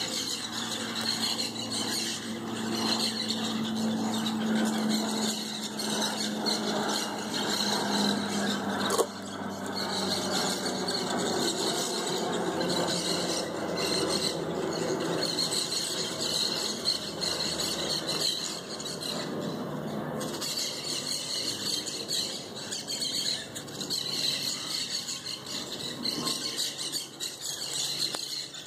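A flock of green parrots squawking loudly and without pause, many shrill calls overlapping.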